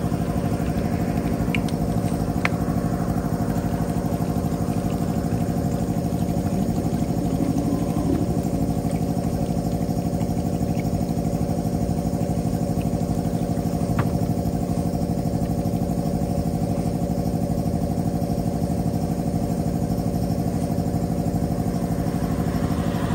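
A steady motor hum, even in level and pitch, with a few sharp clicks.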